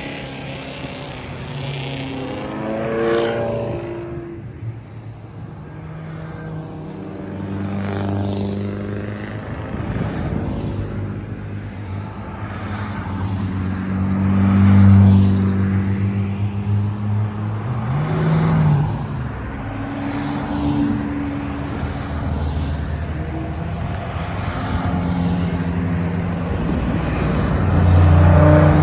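Classic car engines running and driving past one after another, their pitch rising and falling with revs; loudest about halfway through and again near the end.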